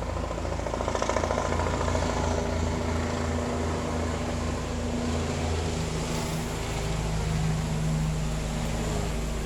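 Police helicopter flying overhead: a steady drone of rotor and engine with a low, pulsing throb.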